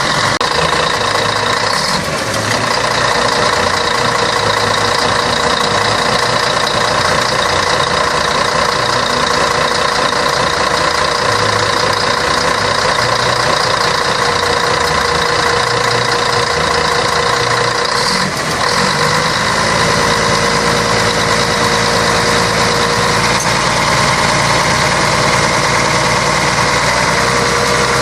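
Scania K113 bus's diesel engine running steadily, with two brief dips in level, about two seconds in and around eighteen seconds in.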